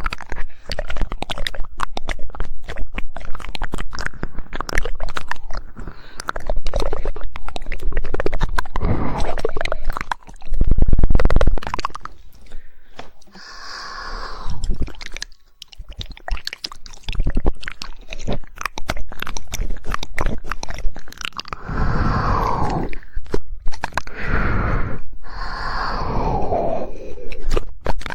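Human mouth sounds: rapid tongue clicking and wet, crackly mouth noises in dense runs, with a few falling wet sweeps in the second half.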